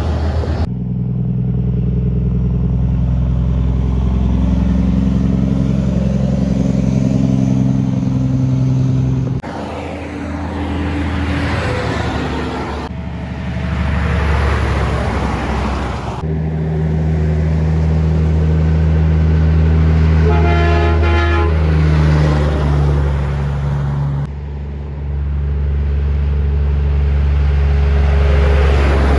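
Kenworth trucks' heavy diesel engines running as they pass, heard in several short clips that cut in and out abruptly. About twenty seconds in comes a brief horn toot.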